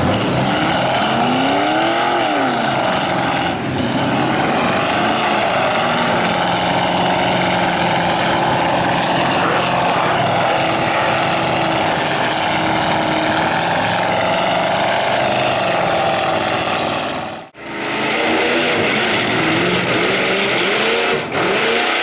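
Mud truck engines running hard and revving, their pitch rising and falling with the throttle. The sound breaks off suddenly for a moment about seventeen seconds in, then the engines carry on.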